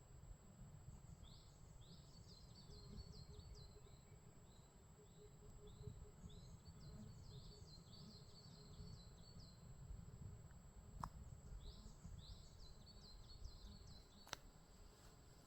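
Faint songbirds chirping in the forest: short, high, rising notes repeated in quick runs, over a low rumble. Two brief clicks come near the end.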